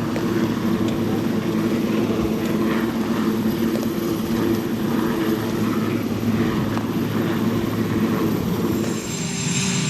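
Helicopter running steadily with a low engine drone; about nine seconds in the sound dips, then a higher whine comes in.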